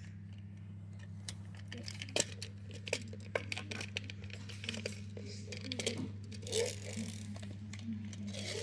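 Small toy cars being handled and set down, a scatter of light clicks and clinks of hard toys knocking together, over a steady low hum.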